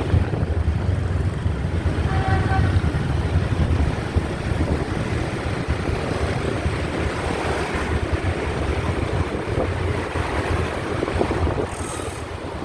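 Wind buffeting the microphone over the steady rumble of a motorbike being ridden. A short, faint pitched tone sounds about two seconds in.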